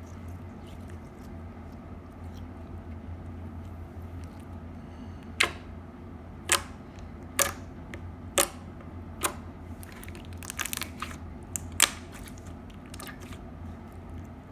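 Slime being played with, giving sharp crunchy pops about once a second from about five seconds in, with a quick crackly flurry near the end, over a steady low hum.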